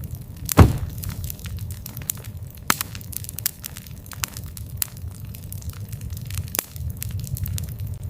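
Wood fire burning, with a steady low rumble and irregular crackles and snaps, one loud pop about half a second in.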